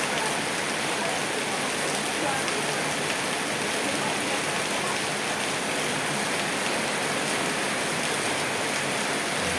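Steady rain falling on a surface, a constant even hiss of drops.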